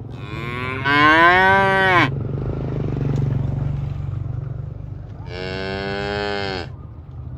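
Cattle mooing: two long moos, the first about two seconds long and the loudest, its pitch rising then falling, the second a little over a second long near the end. A steady low hum lies underneath.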